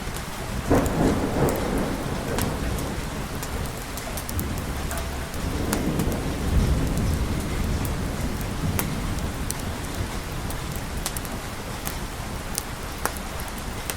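Steady rain with scattered crisp drop ticks, and two rolls of thunder: a sharp crack and rumble about a second in, then a deeper, longer rumble swelling around the middle and fading away.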